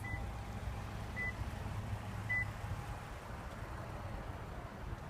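Power liftgate of a 2015 Toyota Highlander opening: three short high warning beeps about a second apart, over a low steady hum.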